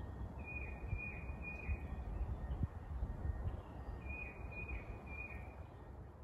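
A bird calling twice, each time a phrase of three short, falling notes, about three seconds apart. Underneath is a low rumble of wind on the microphone, and the whole sound fades down near the end.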